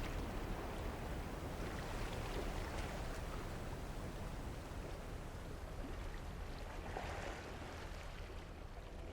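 Steady rush of water and wind noise from a sailing boat under way, with a low rumble.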